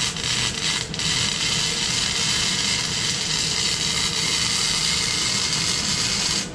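MIG welding arc crackling and sizzling steadily as a bead is laid. It breaks off briefly about a second in, then runs on and cuts off suddenly near the end when the trigger is released.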